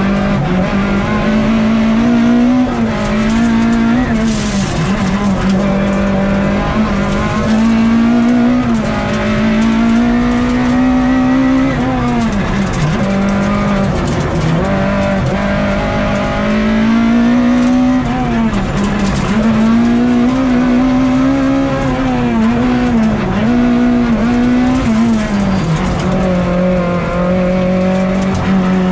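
Citroën Saxo F2000/13 rally car's four-cylinder engine heard from inside the cabin at full stage pace, its pitch climbing and dropping again and again as it accelerates and lifts through tight bends. The note settles to a steadier pitch near the end.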